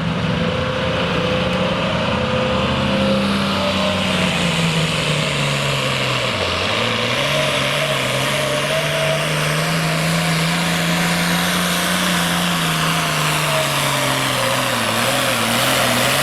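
Hot stock diesel farm tractor running at full throttle while pulling a weight-transfer sled. The engine note sags about six seconds in as it lugs under the load, then picks back up and holds steady.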